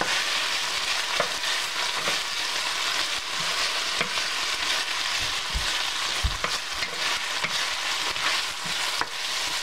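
Beef strips, onions and garlic sizzling in butter and olive oil in a stainless steel frying pan, with a wooden spatula clicking and scraping against the pan as they are stirred.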